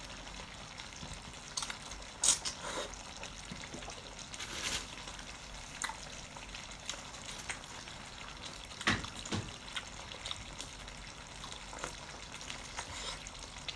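Water running steadily, with scattered clicks and knocks over it; the sharpest knock comes about two seconds in, another about nine seconds in.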